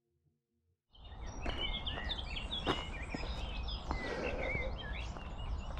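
After a near-silent first second, songbirds chirp and sing with many short, high calls over a steady low rumble, with a few sharp clicks among them.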